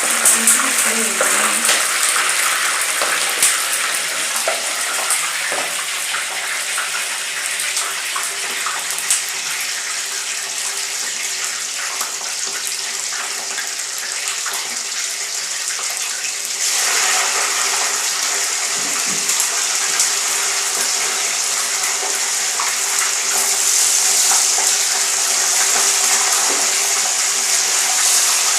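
Chicken pieces deep-frying in hot oil in a sufuria: a steady sizzle full of small pops and crackles, growing louder a little past the middle.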